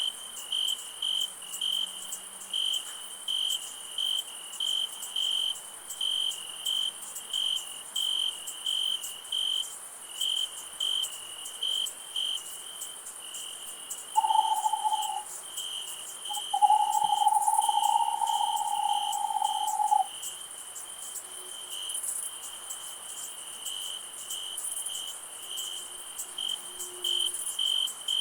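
Night chorus of crickets chirping in a regular pulse, about three chirps every two seconds, over a steady high insect hiss. About halfway through, two steady mid-pitched calls sound over it, a short one and then a longer one of about three seconds.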